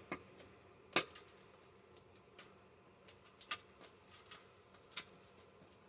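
Scattered small clicks and scratches from a hand tool prying at the plastic film on a microwave door's perforated metal screen, working to peel it off.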